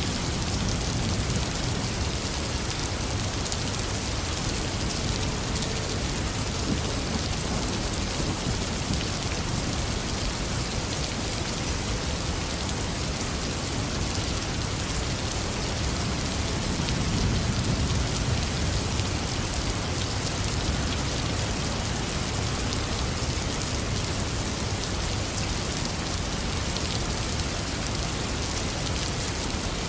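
Heavy rain falling steadily, a dense even hiss of drops, with a low rumble of thunder swelling a little past halfway through.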